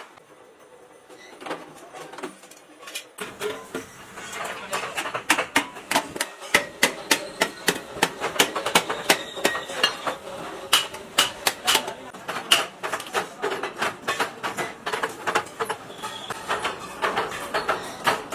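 Hammering on sheet-metal muffler parts: a fast, uneven run of sharp metal knocks, several a second, over a steady machine hum that comes in about three seconds in.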